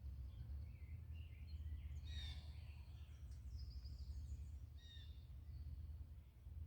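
Faint outdoor ambience with wild birds calling: a few short chirps and whistles about two to three seconds in and again near five seconds, over a steady low rumble.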